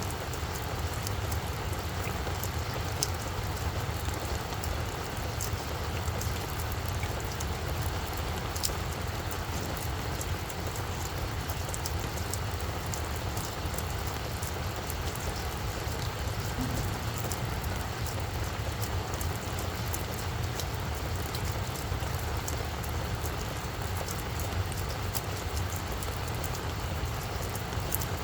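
Steady rain falling on a flower bed, with scattered sharp drop ticks over an even hiss and a steady low rumble underneath.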